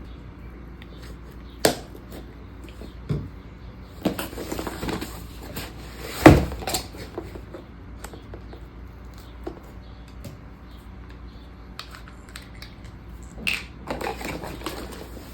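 Hands handling packaging and planner supplies: rustling with scattered clicks and taps, and one sharp knock about six seconds in.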